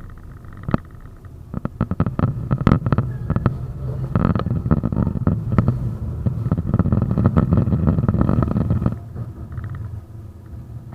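71-931M Vityaz-M tram running along the track, its wheels rumbling on the rails with a quick series of clacks and knocks. The rumble grows louder about two seconds in and falls away near the end.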